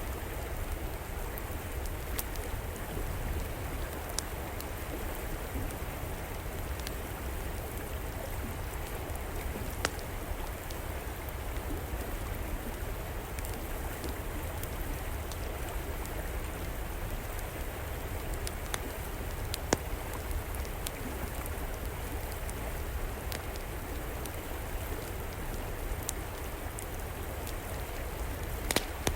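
Steady rush of flowing river water, with scattered sharp crackles and pops from a wood fire; the loudest pops come about two-thirds of the way through and near the end.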